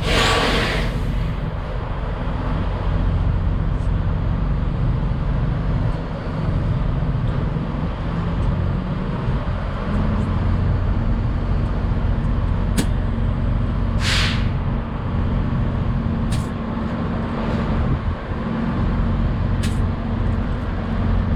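Air compressor running steadily while a truck tire is inflated. Short sharp hisses of air at the tire chuck come right at the start and again about two-thirds of the way through, with a few light clicks.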